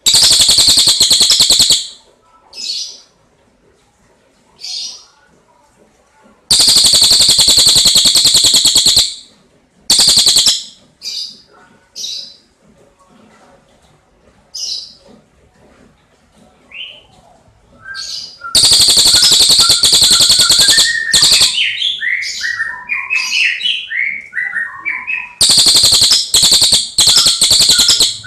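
Tengkek cililin (a kingfisher, as Indonesian bird-keepers call it) calling: loud, very fast high trills in bouts of one to three seconds, with fainter short calls in between. In the second half a run of lower notes steps up and down.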